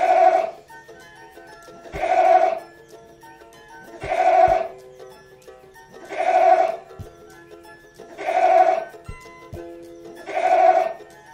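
A goat bleating, six bleats evenly spaced about two seconds apart, over background music.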